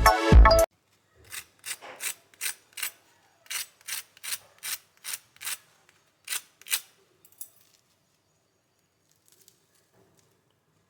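Intro music cuts off, then a run of about fourteen short rasping strokes, roughly two a second, stopping after about six seconds.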